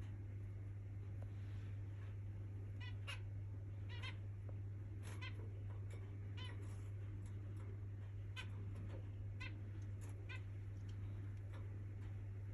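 Budgerigars giving short, high chirps, roughly one every second, some in quick pairs.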